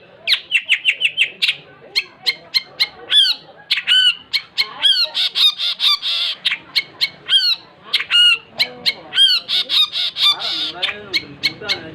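Long-tailed shrike (cendet) singing hard: a fast, unbroken run of sharp clipped notes mixed with harsh, hooked calls, several a second.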